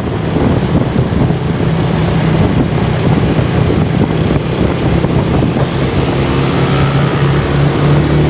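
Motorcycle engine running steadily while riding, with heavy wind noise buffeting the microphone; the engine note firms up a little near the end.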